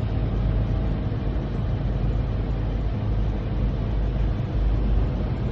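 Semi truck's engine and road noise heard from inside the cab while driving: a steady low drone with an even rushing hiss over it.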